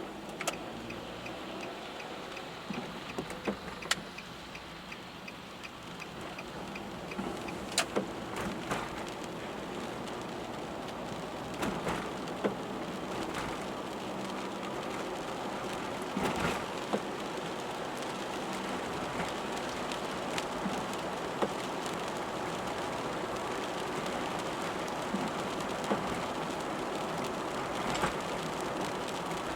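Rain falling on a moving car, with the steady hiss of rain and wet road and scattered sharp drop hits on the body and glass. It grows slowly louder.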